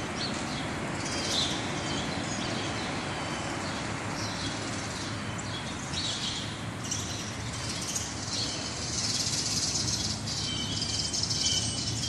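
Birds chirping and twittering again and again over a steady outdoor background hiss.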